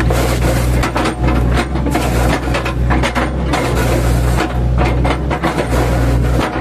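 Mini excavator's diesel engine running steadily under load, with repeated irregular cracks and knocks as the bucket chops into oil palm trunk.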